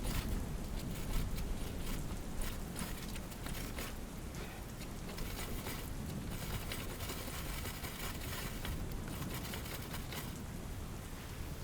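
Rain falling steadily, with close pattering, rustling and scraping over it, and a low rumble during the first couple of seconds.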